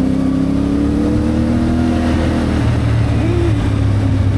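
CFMoto 450MT parallel-twin motorcycle engine running under way, its pitch creeping up and then easing off about two seconds in, with a short blip of revs a little past three seconds.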